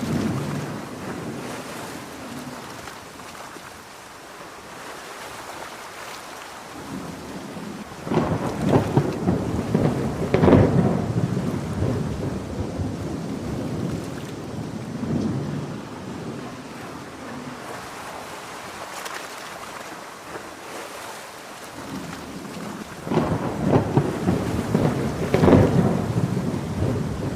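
Steady heavy rain with thunder rolling twice: a long rumble builds about a third of the way in and fades over several seconds, and a second one swells near the end.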